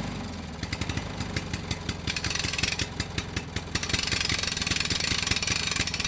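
An engine running at idle with an even, rapid firing beat, a little louder in the second half.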